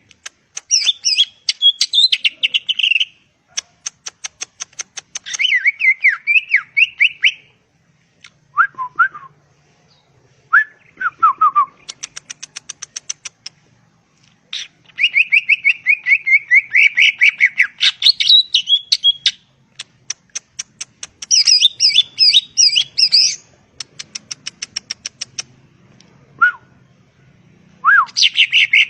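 Cucak ijo (green leafbird) singing in loud, repeated phrases of rapid chattering notes and fast trills, broken by short pauses and a few single whistled notes that slide downward.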